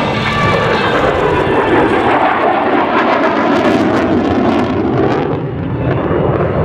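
Loud jet noise from an F-35B Lightning II's single F135 turbofan as the fighter flies a tight minimum-radius turn, with sharp crackles in the middle.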